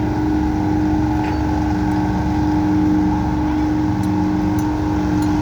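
Gas-engined pickup truck's engine held at steady high revs under full load while pulling the weight sled in a truck pull.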